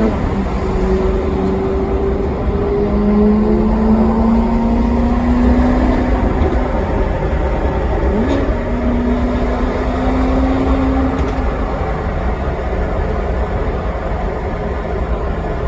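Maserati Quattroporte Sport GT V8 engine running under load while driving, a deep steady rumble with the engine note holding and climbing slowly through the gears. There is a quick sharp rise in revs right at the start and again about eight seconds in.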